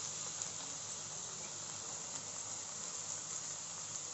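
Chicken mince and chopped onion frying in oil in a non-stick pan: a soft, steady sizzling hiss.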